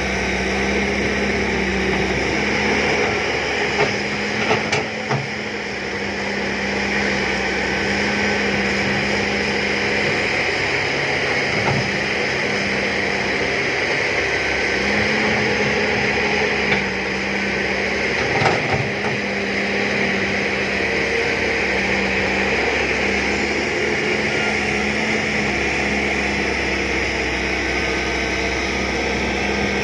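John Deere 595D excavator's diesel engine running steadily, with a few knocks from the machine working: a cluster about four to five seconds in and a sharper one near the eighteen-second mark.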